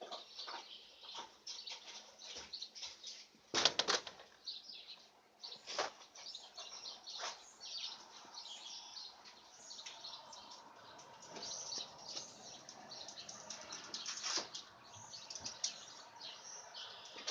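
Cat batting a dead bird about: scattered, irregular rustles and scuffles of feathers, with a louder scuffle about three and a half seconds in.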